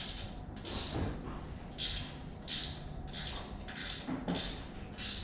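Hand ratchet wrench worked back and forth, a short burst of ratchet clicks on each backstroke about every half second, as an exhaust manifold stud is backed out of a Ford 302 V8's cylinder head.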